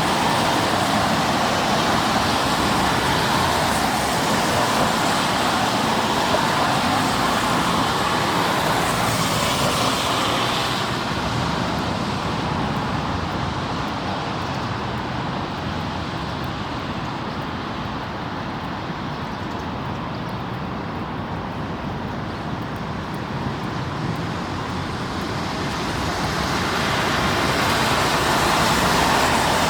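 Electric commuter train running through the station, a loud, steady rolling noise. It eases off from about a third of the way in and builds up again near the end.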